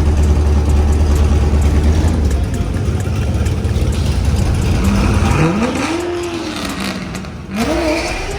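A car engine with a deep rumble, then accelerating hard: its pitch climbs, drops at a gear change about seven and a half seconds in, and climbs again as the sound fades away.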